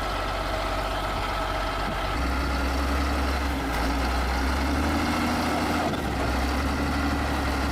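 Heavy diesel machinery engine running steadily. About two seconds in, its note gets deeper and stronger and stays that way.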